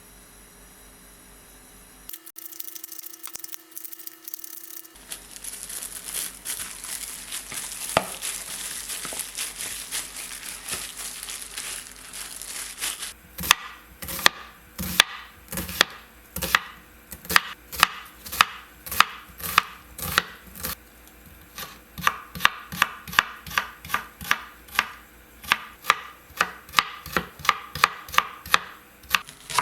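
Kitchen knife chopping vegetables on a cutting board in steady strokes, about two a second and slightly faster near the end, starting about halfway in. Before that, a steady hiss.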